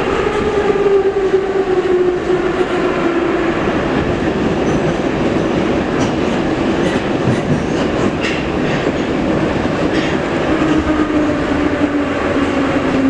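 Kharkiv metro train running through the tunnel: a steady rumble of wheels on rail, with clicks from about six to ten seconds in. Over it, a traction-motor whine falls in pitch at the start and again near the end as the train slows.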